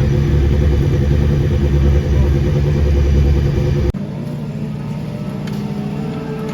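Racing superbike engine running loudly and steadily. It breaks off abruptly about four seconds in to a quieter engine sound whose pitch starts to rise near the end.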